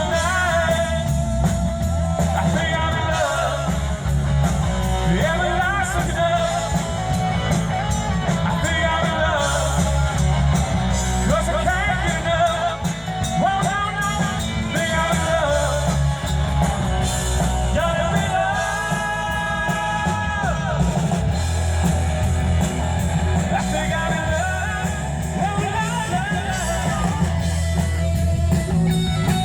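Live rock band playing a song with a singer: sung lines, some held long, over loud bass and drums.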